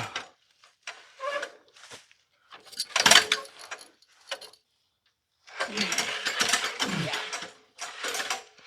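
An extension ladder's fly section being raised in several spurts, its rails sliding and its rung locks clattering.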